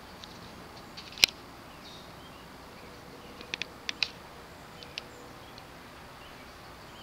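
Several sharp clicks over a low steady background hiss: one loud click about a second in, then a quick cluster of clicks a little past the middle and a softer one after it.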